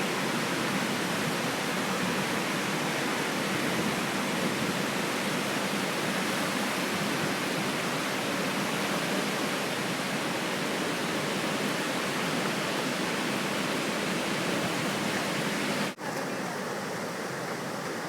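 The Deerfield River in flood, swollen by hurricane rains, rushing in a steady roar. Near the end the sound breaks off for an instant and comes back slightly quieter.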